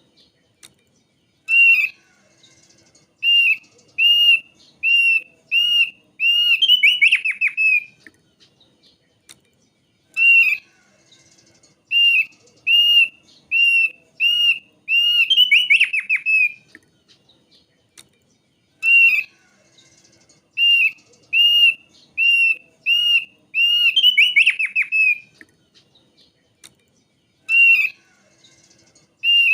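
Thick-billed heleia (thick-billed white-eye) song: a run of short, clear whistled notes a little over one a second, broken by a quick falling trill. The same phrase repeats three times, about every eight to nine seconds.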